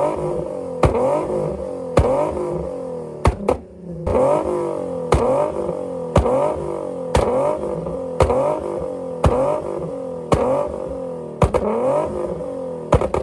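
A car engine revved hard over and over, about once a second. Each rev climbs in pitch, ends in a sharp exhaust bang, then falls back.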